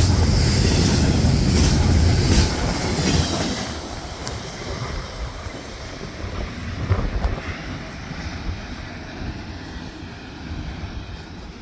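Intermodal freight train rolling past: loud rumble and wheel-on-rail noise that drops off after about three seconds as the train moves away, leaving a quieter rolling clatter with a few clanks.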